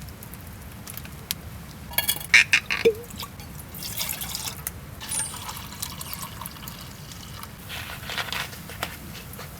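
Liquid being poured and splashing, with a quick cluster of sharp knocks or clinks about two to three seconds in.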